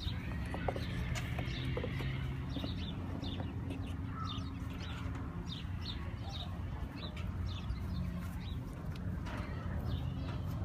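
Small birds chirping in short, repeated high notes over a steady low hum.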